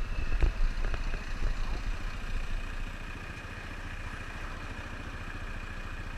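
Motorcycle engine running, with a few clattering knocks in the first second or so; after about three seconds it settles quieter and steadier.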